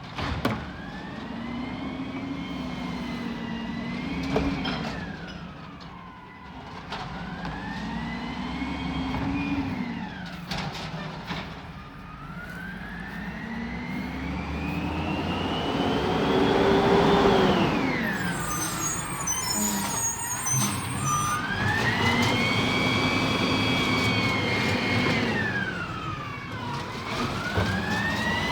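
Peterbilt 320 garbage truck's diesel engine revving up, holding and dropping back repeatedly, with a rising-and-falling whine every few seconds.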